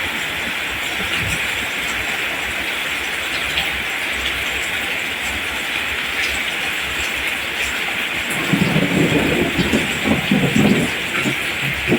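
Steady rain falling on rice plants, an even hiss. Near the end a stretch of low, uneven rumbling rises over it for a couple of seconds.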